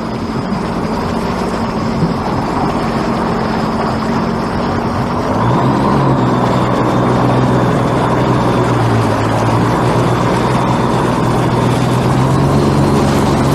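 A large engine running steadily under load. Its pitch steps up about five and a half seconds in and shifts again near the end.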